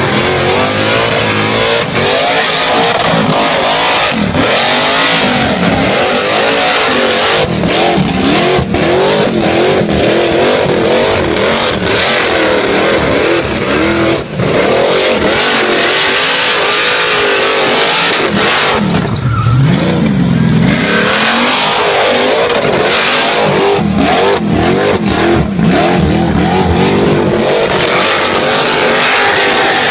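Car engine revving hard and held high through a burnout, its pitch wavering up and down over the hiss of the spinning rear tyres. The revs dip and recover a couple of times, most deeply around twenty seconds in.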